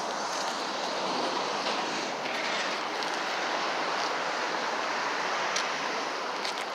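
Steady outdoor rushing noise, even and unbroken, with a few faint clicks near the end.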